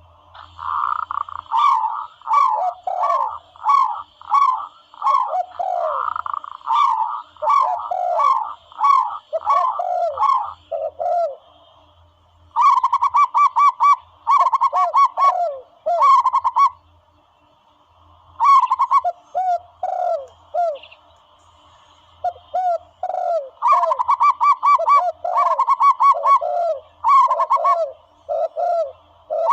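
Recorded dove calls played from a bird-hunting sound caller: bouts of quick, repeated cooing notes with higher chirps above them, broken by three short pauses.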